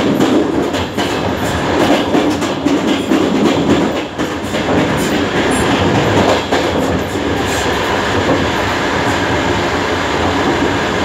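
DR1A diesel multiple unit running at speed: a steady rumble of running gear with the clickety-clack of wheels knocking over rail joints, the knocks thick for the first several seconds and sparser near the end.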